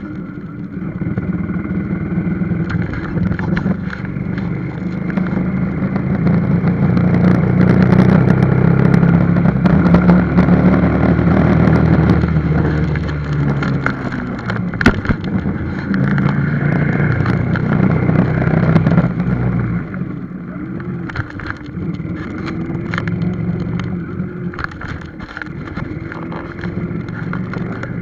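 Motorcycle engine running while riding, the recording sped up four times; it grows louder for a stretch in the middle, then eases back.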